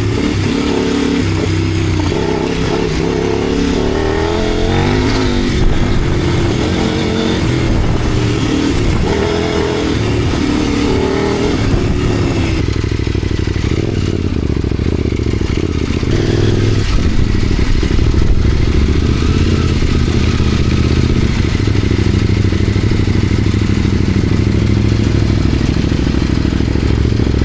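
Motorcycle engine running while riding, the revs rising and falling through gear changes for the first half, then holding steadier for the rest.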